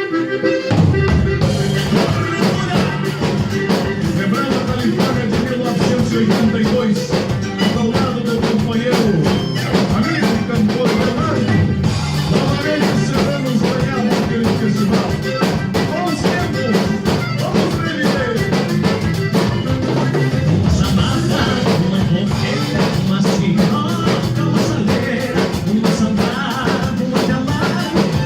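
Band music: an upbeat song with a steady drum-kit beat and other instruments.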